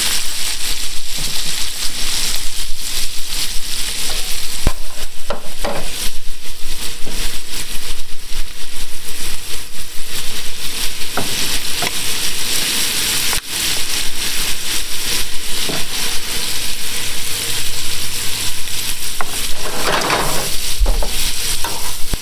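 Shrimp sizzling and frying in a hot pan, a steady loud hiss, with occasional sharp clicks and scrapes as the food is stirred.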